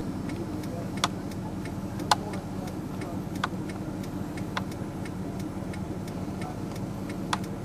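Vehicle engine idling, heard as a steady low hum from inside the cab, with a few sharp ticks about a second apart and one more near the end.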